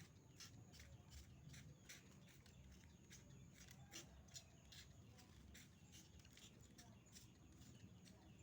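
Hand trigger spray bottle squirting water in quick, faint repeated bursts, several a second.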